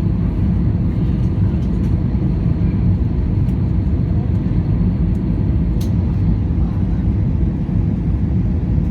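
Steady low rumble of an airliner's cabin in flight: engine and airflow noise as the plane descends toward landing.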